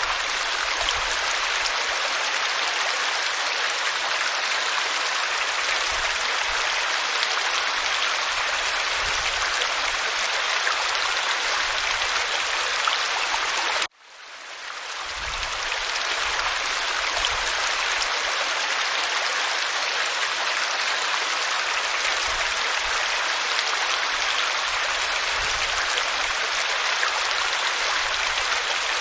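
Waterfall pouring over rock: a steady, even rush of falling water. About halfway through it cuts out for an instant and swells back in.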